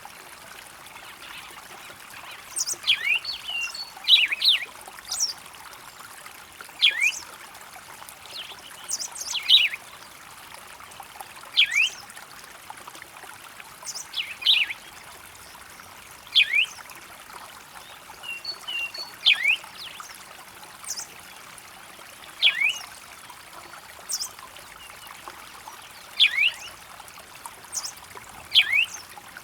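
A bird repeating short, sharp, high sweeping calls every two to three seconds over a steady trickle of running water.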